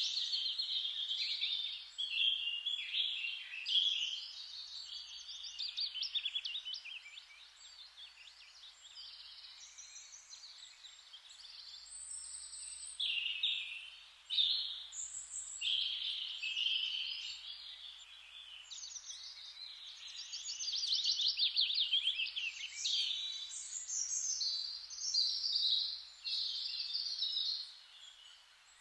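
Songbirds singing continuously, overlapping phrases and fast trills that rise and fade, over a faint steady hiss.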